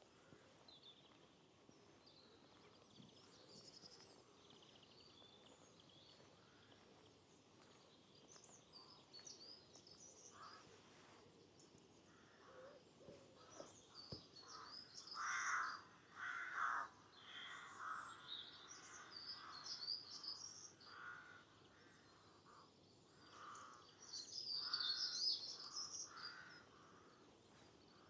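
Crow-family birds cawing, a run of harsh repeated caws starting about halfway through, over the high twittering of small songbirds, which swells into a loud burst near the end.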